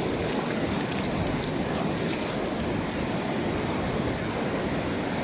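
Sea surf washing up a sandy beach, a steady rush of waves, with some wind buffeting the microphone.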